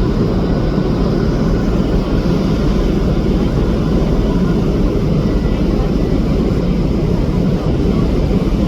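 Steady low rumble of a ferry under way.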